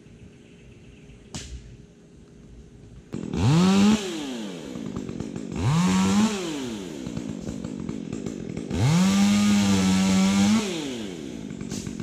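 Two-stroke chainsaw revved to full throttle three times, the pitch climbing steeply each time and falling back to idle in between; the third burst is held for about two seconds. A single sharp click sounds in the quiet stretch before it.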